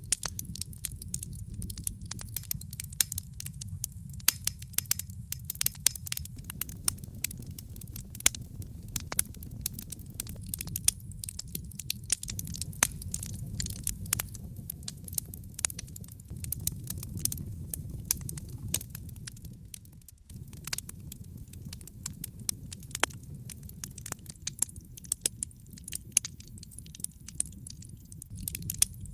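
Wood fire burning in a fireplace: a steady low rumble of flames under frequent sharp crackles and pops, dipping briefly about two thirds of the way through.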